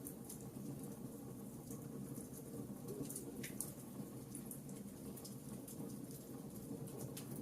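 Campfire crackling: frequent irregular sharp pops and snaps over a steady low background of the burning fire.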